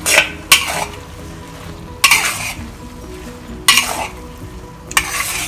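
Metal spatula scraping and tossing noodles around a wok, about five separate scrapes, over the steady sizzle of the noodles frying in the hot wok.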